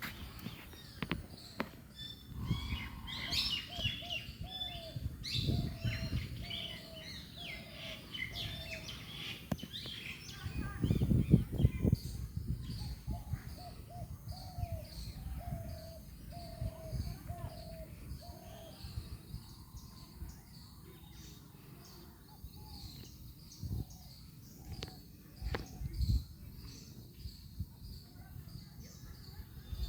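Birds calling outdoors: a tangle of high chirps in the first third, and two runs of short repeated call notes about twice a second. Scattered low knocks and rumbles run underneath, loudest about eleven seconds in.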